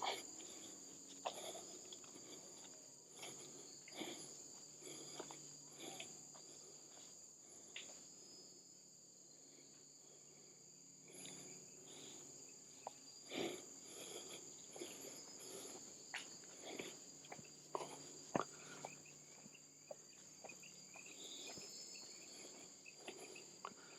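Faint, steady high-pitched insect chorus of the tropical forest, with scattered soft taps and ticks, the loudest about 13 and 18 seconds in.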